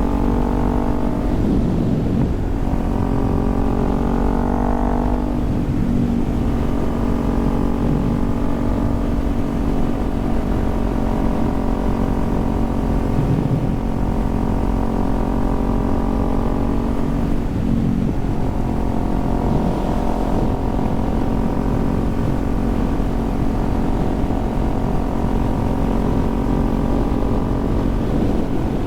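Kawasaki Z400's parallel-twin engine running steadily while the motorcycle cruises on the road, over a low rush of wind noise. Its pitch shifts a few times.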